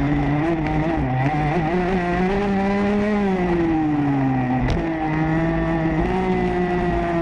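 Motocross bike engine heard from the bike itself, its note rising and falling as the throttle is worked: it climbs, sags away, breaks off briefly about four and a half seconds in, then picks up again.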